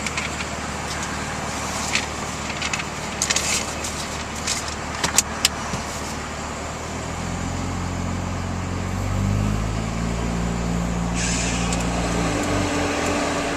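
Hotshot pickup truck heard from inside the cab: a few clicks and rattles, then about seven seconds in the engine pulls away and its note climbs as the truck picks up speed.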